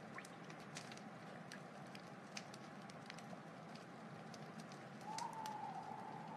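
Wood fire crackling: a steady soft hiss with scattered small pops and snaps. About five seconds in, a thin whistling tone joins, rising a little and then sinking.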